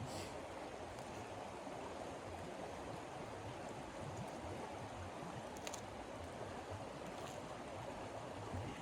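Steady rushing noise of blizzard wind, with a few faint ticks.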